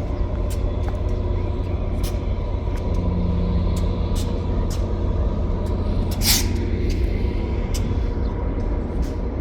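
Steady low rumble of a moving vehicle's engine and road noise, with light ticks and a brief hiss about six seconds in.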